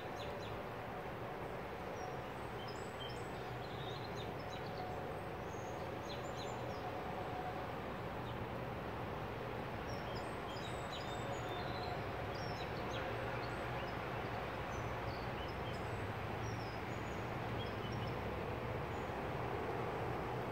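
Small birds giving scattered short chirps, busiest in the first few seconds and again around the middle, over a steady outdoor background noise with a low hum.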